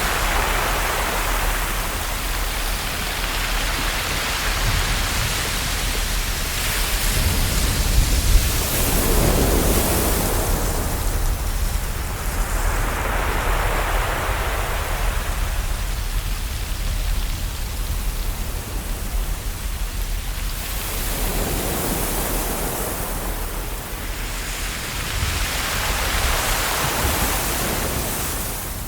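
Ocean waves washing onto a shore: a steady rush of surf that swells and ebbs, each wave surging up and falling back every few seconds.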